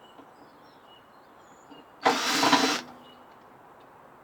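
A microwave's thin sheet-metal cover being bent back, a loud metallic clatter lasting just under a second about two seconds in.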